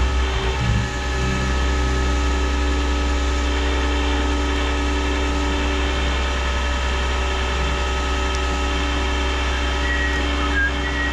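Flatbed tow truck's engine running steadily, powering the hydraulic bed and winch as the car is let down, with a few knocks in the first second and faint squeaks near the end.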